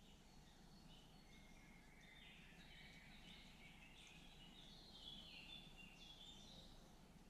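Faint birdsong: several songbirds singing short chirping phrases over a low, steady background noise, busiest in the middle.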